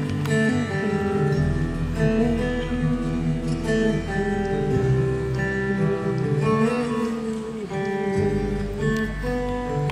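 Live band playing a song's instrumental intro, led by strummed acoustic guitar with bass and other instruments underneath.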